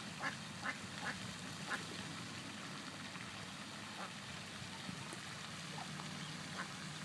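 Ducks quacking: four short quacks in the first two seconds, then a few fainter scattered ones, over a steady low hum.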